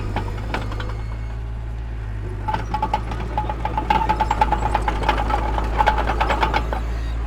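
Heavy earthmoving machinery with a diesel engine running as a steady low drone. About two and a half seconds in, a fast metallic clatter with a high squeaking tone starts; it stops shortly before the end.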